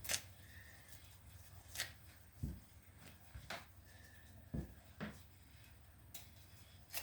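Sandpaper and small items on a workbench being handled: scattered short rustles and light knocks, about one every second or so.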